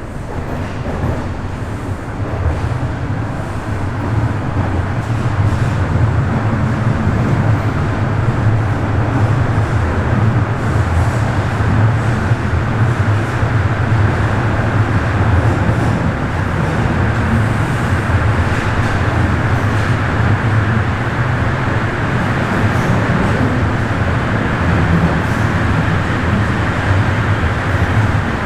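Bombardier Toronto Rocket subway train running between stations, heard inside the car: a steady low rumble with wheel-on-rail noise. It grows louder over the first few seconds as the train picks up speed, then holds steady.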